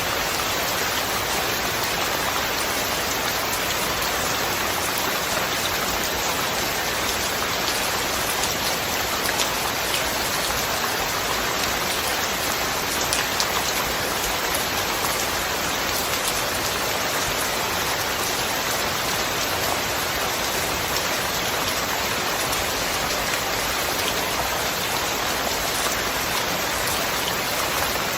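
Steady rain: a dense, even hiss of falling rain with scattered sharper drop ticks, unchanging throughout.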